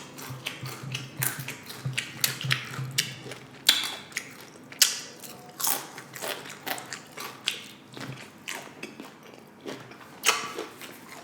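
Close-up chewing of crunchy tortilla chips in loaded nachos: irregular sharp crunching cracks, several a second, with a couple of louder crunches about five and ten seconds in.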